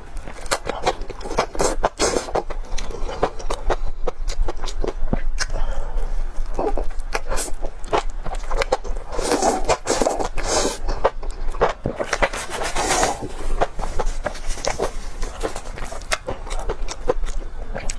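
A person chewing and biting food close to the microphone, with many quick clicks and wet smacks and a few louder stretches of chewing.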